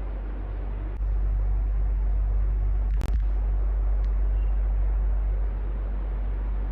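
Electric fan running with a steady rushing noise over a low hum. It grows a little louder about a second in and briefly cuts out with a click about three seconds in.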